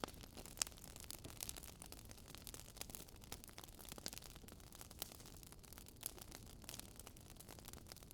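Faint crackling of a wood fire: irregular sharp pops and snaps over a soft steady hiss.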